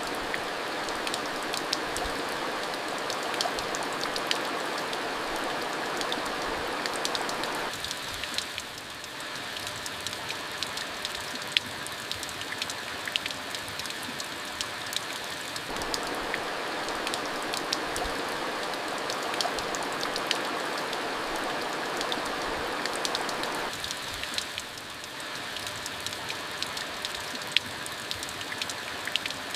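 Steady rain falling, a dense hiss with many sharp drip ticks throughout. It eases briefly twice, about eight seconds in and again near the end.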